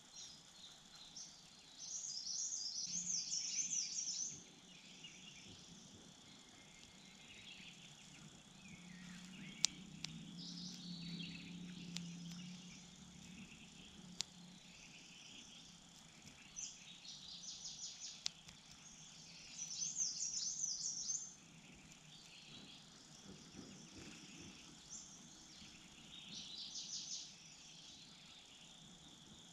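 Wild birds singing in short bursts of rapid high twittering phrases, three louder ones at a few seconds in, about twenty seconds in and near the end, over a steady high insect chirring. A couple of sharp clicks sound in the middle.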